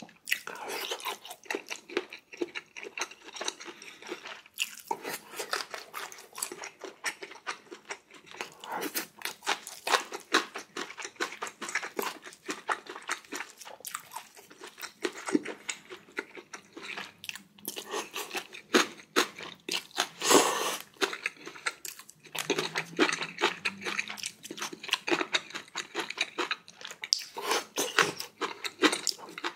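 A person chewing and crunching food close to the microphone, with many irregular wet mouth clicks and bites.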